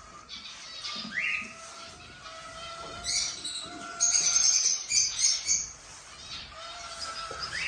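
Cockatiels chirping and calling, with a rising call about a second in and a louder flurry of high chirps and squawks about four seconds in.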